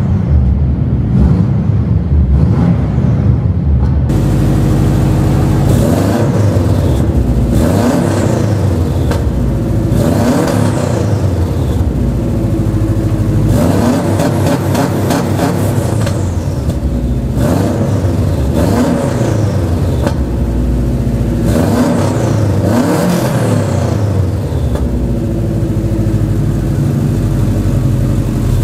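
A 2004 Subaru STi's turbocharged 2.5-litre flat-four, breathing through an aftermarket eBay downpipe on a Stage 2 tune, idles and is blipped repeatedly. There are about eight short revs, each rising and falling back to idle, in a concrete parking garage.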